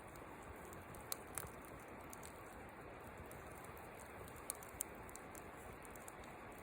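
Wood fire burning in a fire pit: a faint steady hiss with a few sharp pops, two about a second in and two more a little past the middle.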